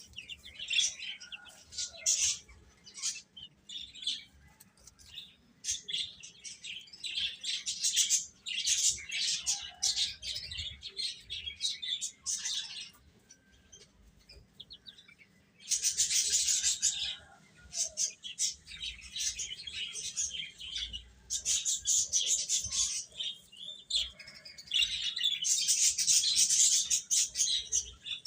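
A group of baby chicks peeping: dense, rapid high-pitched chirps, with a brief lull about halfway through before the peeping picks up again.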